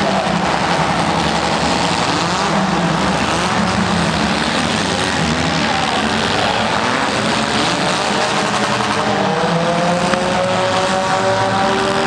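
Engines of several compact demolition derby cars running and revving together. Their pitches rise and fall over a dense, steady din, and one engine revs up clearly in the second half.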